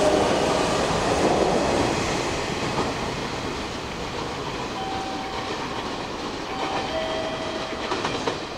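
Hanshin Railway train running at a station platform, its noise loudest at first and slowly dying down, with a few short steady tones in the middle and sharp clicks near the end.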